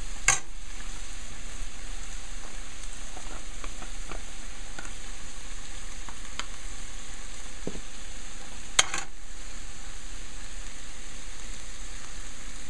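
Flaked saltfish sizzling steadily in hot oil in a non-stick frying pan while being stirred with a spatula. Two sharp knocks of the spatula on the pan stand out, one just after the start and one about nine seconds in.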